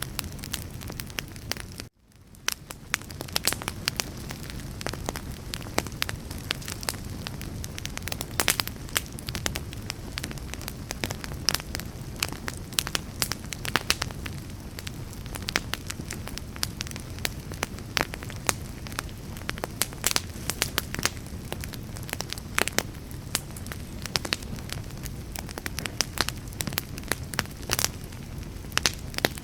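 Wood fire burning, with frequent sharp crackles and pops over a steady low rumble of flames. About two seconds in the sound briefly cuts out and fades back in.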